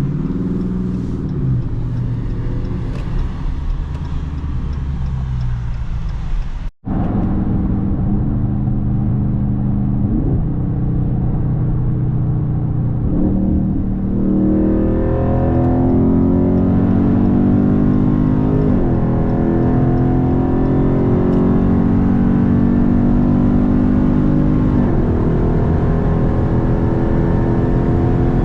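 Dodge Charger Scat Pack's 392 HEMI V8 running under way, with a brief cut in the sound about seven seconds in. It then accelerates, climbing to a higher steady engine note held for several seconds before the revs drop near the end.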